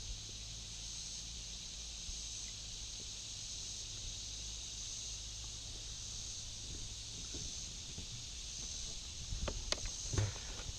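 Steady high-pitched buzz of an insect chorus, with a few light knocks and clicks near the end.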